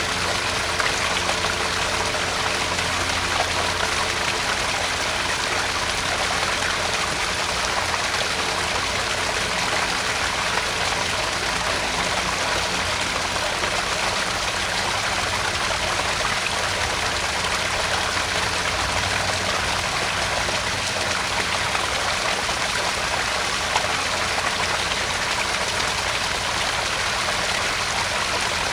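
Small garden-pond waterfall: water splashing and trickling steadily into the pond.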